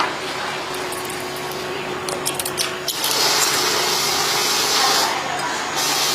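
Workshop machine running with a steady hiss and a faint hum; a brighter, higher hiss comes in about three seconds in for a couple of seconds, and again near the end.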